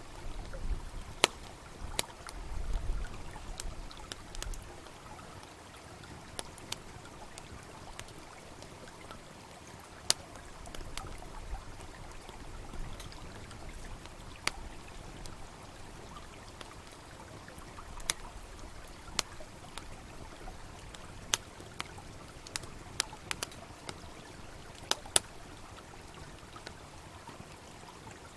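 Wood campfire crackling, with sharp irregular pops every few seconds, over the steady rush of a small babbling stream. A low rumble sits under it for the first few seconds.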